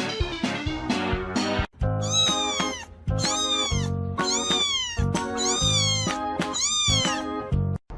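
A domestic cat meowing loudly and repeatedly: about five long meows, each rising then falling in pitch, over background music that runs under the whole clip.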